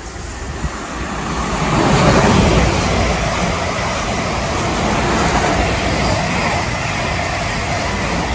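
South Western Railway electric multiple-unit train running along the platform: the noise of its wheels on the rails grows louder over the first two seconds, then stays loud as the coaches go by.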